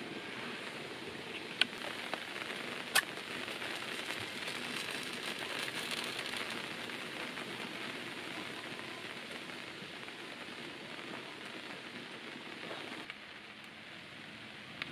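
Steady hiss of rain falling, with two sharp clicks about a second and a half apart in the first few seconds. The hiss drops suddenly a little before the end.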